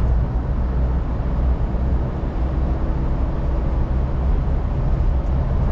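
Steady in-cabin driving noise of a car: a low engine and road rumble with tyre hiss.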